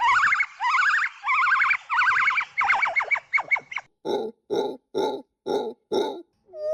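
Monkey calls: a run of rapid warbling trills, each about half a second long, then five short calls at about two a second, and a rising call starting near the end.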